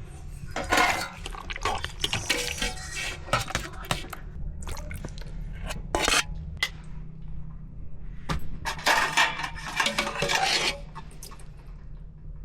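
Dishes and metal pots clinking and clattering in a series of irregular knocks, over a steady low rumble.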